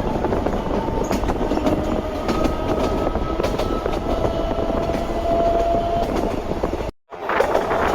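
Narrow-gauge electric train with nose-suspended traction motors running along the line: a steady rumble of wheels on track with a faint motor whine. About seven seconds in the sound cuts out for a moment, then returns brighter.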